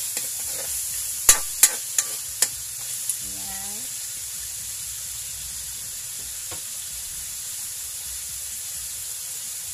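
Chicken pieces frying in oil with garlic and onion in a non-stick wok: a steady sizzle. A spatula stirs and knocks sharply against the wok four times, about a second in. Then the stirring stops and only the sizzle goes on.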